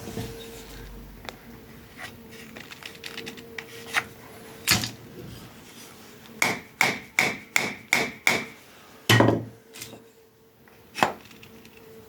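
Hammer tapping on wood: scattered single knocks, then a quick run of about six taps around the middle, followed by a louder knock and one more near the end.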